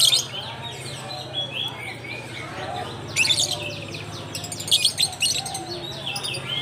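A mass of caged lovebirds chirping shrilly all at once, with louder bursts of calls right at the start, about three seconds in and about five seconds in, over a steady low hum.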